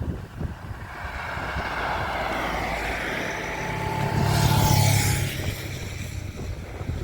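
A motor vehicle passing by: the engine sound swells, is loudest about four to five seconds in, then fades away.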